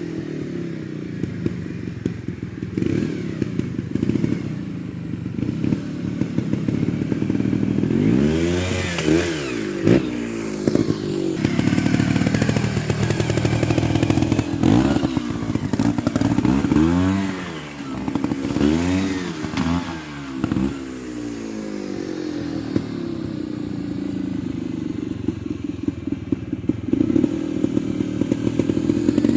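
Trials motorcycle engine running at a low idle and blipped sharply several times, revving up and dropping back, with occasional thuds and clatter.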